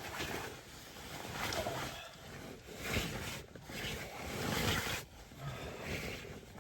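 Clothing rustling and shuffling as a person undresses in a tent, in irregular bursts.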